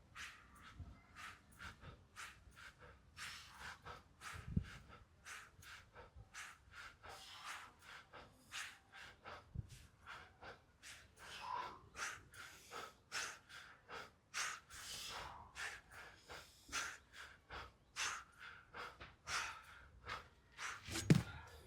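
A man breathing hard through nose and mouth while exercising, in quick sharp breaths about two a second, the sound of heavy exertion during a fast set of bodyweight reps. A few dull low thumps come through; the loudest is near the end.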